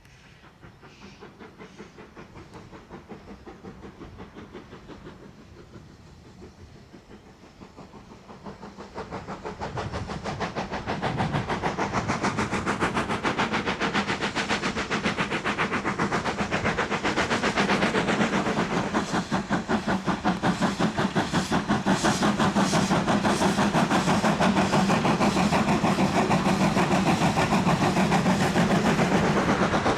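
Steam tank engine BR 41313, an Ivatt Class 2 2-6-2T, working hard with a rapid, even beat of exhaust chuffs. It is faint at first, grows loud between about eight and eleven seconds in as it draws near, and then stays loud.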